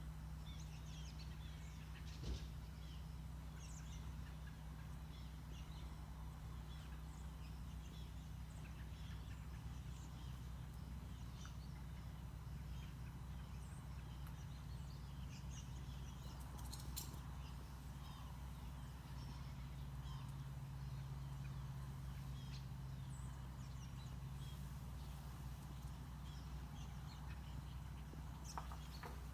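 Chorus of a very large flock of birds chirping and calling all at once, many short overlapping chirps, over a steady low hum.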